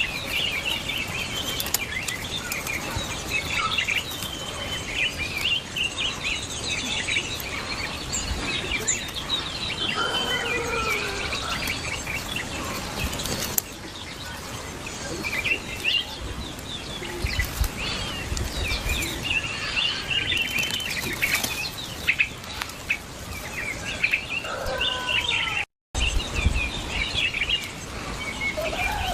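Small birds chirping, many short high chirps following one another, with a few lower gliding calls among them. The sound drops out to silence for a moment near the end.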